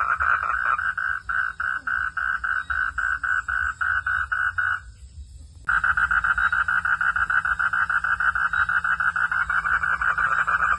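Frogs calling in a fast run of pulsed notes, about five a second, that breaks off abruptly about halfway through and resumes after a short gap.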